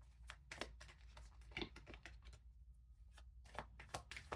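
Faint, irregular clicks and taps of tarot cards being handled.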